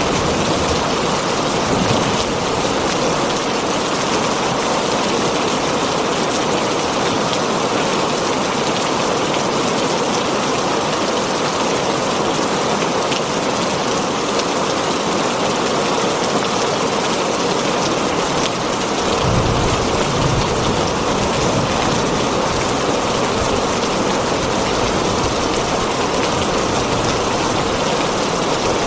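Heavy rain drumming steadily on a tin roof, a dense even hiss. A low rumble comes in about two-thirds of the way through and carries on under the rain.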